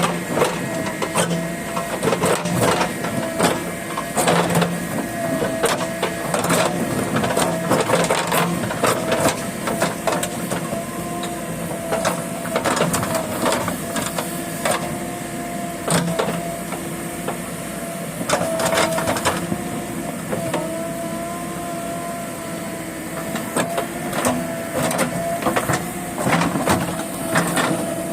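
JCB backhoe loader running, with a steady whine that wavers slightly in pitch and frequent clanks and knocks throughout.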